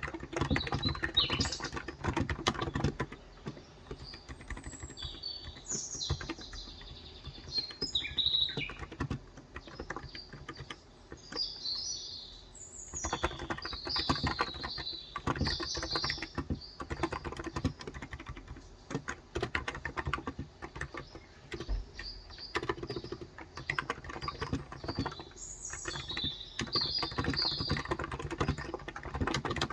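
Typing on a Cox Endeavour electro-capacitive 35 g tenkeyless keyboard, in quick runs of keystrokes with a sparser stretch about a third of the way in. Small birds chirp and twitter in several short phrases over the typing.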